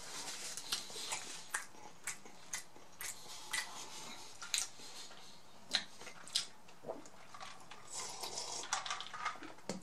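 Close-miked eating sounds: wet mouth clicks and smacks from chewing, irregular, one to two a second, with paper napkin rustling at the start. Near the end, sipping and swallowing a drink.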